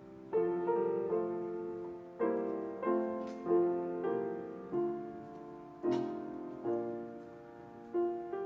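Solo piano playing a slow, gentle piece: chords struck about once a second and left to ring and fade.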